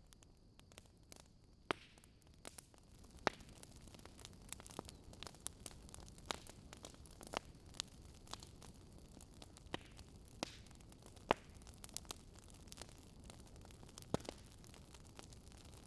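Wood fire crackling in a fireplace: irregular sharp pops and snaps, a few of them louder, over a faint steady hiss.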